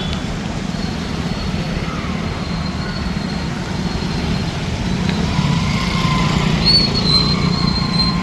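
Road traffic: vehicle engines running steadily as a continuous low rumble, with faint thin high-pitched tones coming and going in the second half.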